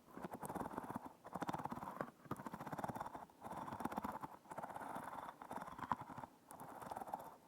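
Close-miked crackling, squishy handling noise in strokes of about a second each, repeating roughly once a second.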